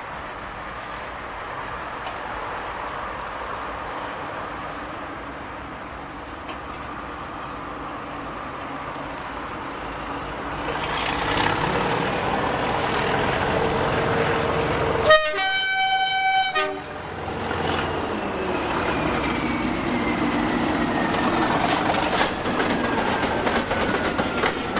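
Class 37 diesel locomotives' English Electric engines running, growing louder about ten seconds in, with a high whistle that rises and then slowly falls. Partway through comes a single locomotive horn blast about a second and a half long.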